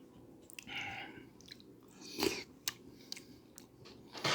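Close-miked mouth sounds of eating: chewing with scattered wet clicks and smacks, a few louder ones in the second half.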